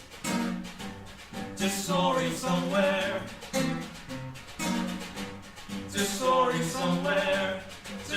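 Music: voices singing a song with instrumental accompaniment.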